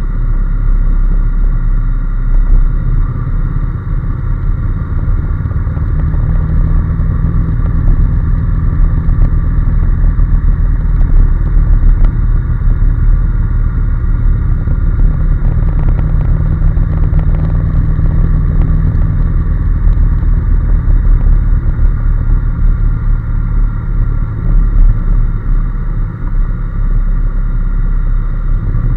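Honda NC750S's parallel-twin engine running steadily while the motorcycle is ridden, its low drone shifting pitch slightly a few times.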